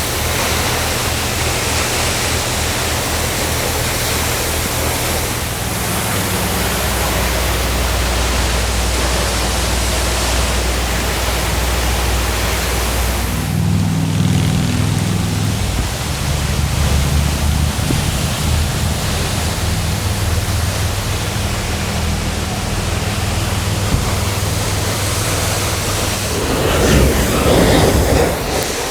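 Rush of a high-flowing waterfall, a steady roar of falling water. A low engine hum runs underneath and changes pitch a few times.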